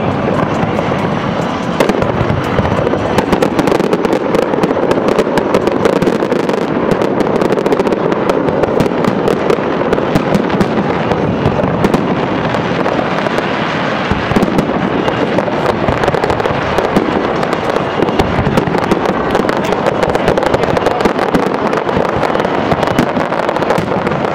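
Aerial fireworks shells bursting in a rapid, continuous barrage: a dense run of bangs and crackles with no pause.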